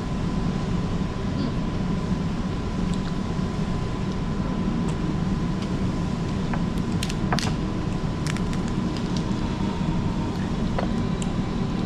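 Steady low rumble of background noise, with a faint continuous tone and scattered light clicks, more of them in the second half.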